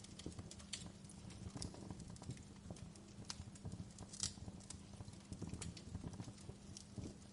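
Fireplace crackling: irregular pops and snaps of varying strength over a low steady rumble, with one sharper snap about four seconds in.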